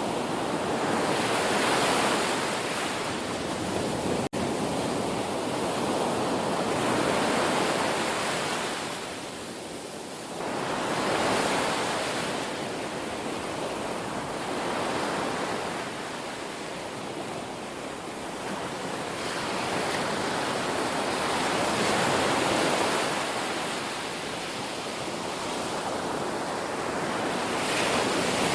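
Ocean surf washing onto a shore, a steady rush of water that swells and eases about every five seconds as waves come in.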